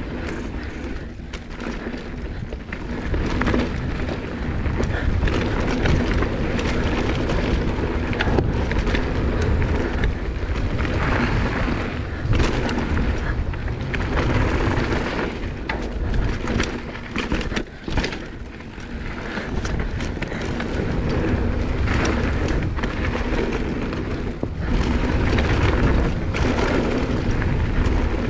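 Mountain bike riding fast down a dirt trail: heavy wind buffeting on the rider's camera microphone, with continuous tyre and chassis rattle and many short knocks as it goes over bumps. The sound briefly drops near the middle.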